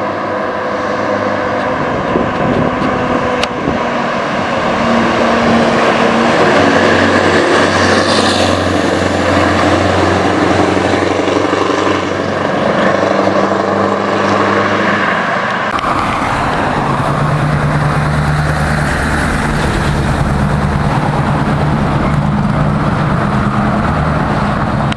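Scania 143's V8 diesel with a straight-pipe exhaust, running loudly, its note rising and falling. The sound changes abruptly about 16 seconds in.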